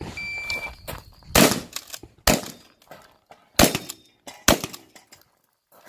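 Shot-timer start beep, then four shotgun shots fired at steel targets, in two pairs about a second apart.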